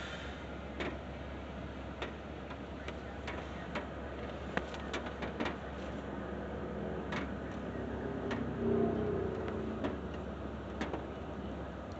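Istobal Flex 5 automatic car wash heard from inside the car's cabin: a steady low hum with scattered, irregular ticks and taps, and a brief whirring tone a little past halfway through.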